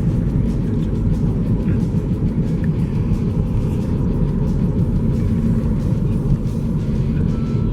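Loud, steady low rumble of wind buffeting the camera microphone.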